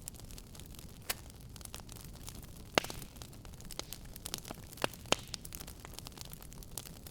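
Fireplace fire crackling: irregular sharp pops and snaps over a low steady hiss, with one louder pop a little under three seconds in.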